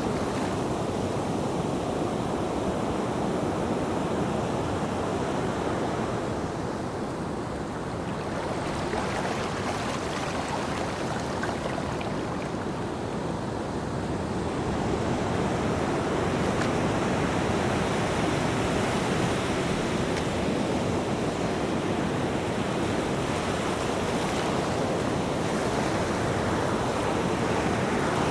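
Ocean waves breaking on a beach: a continuous surf wash that slowly swells and eases as the waves come in and draw back.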